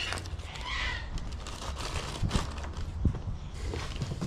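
Plastic dent-puller glue tabs and their packaging being handled: light crinkling with a few soft knocks.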